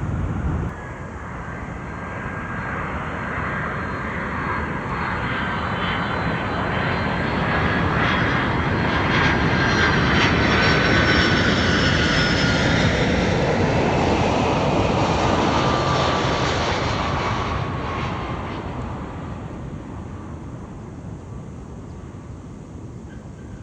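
Airbus A330 jet engines passing by on landing approach: a roar that swells for about ten seconds, peaks with a whine sliding down in pitch as it goes past, then fades away.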